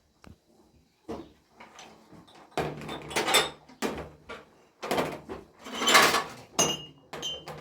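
A series of scrapes and knocks from objects being handled, the loudest about six seconds in.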